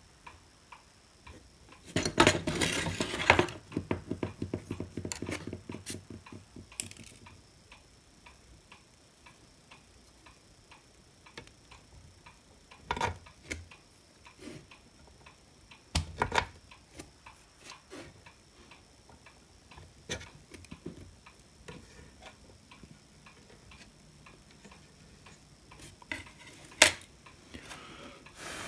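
A clock ticking steadily, with a rattle of small clicks and handling about two seconds in and a few sharp knocks later on.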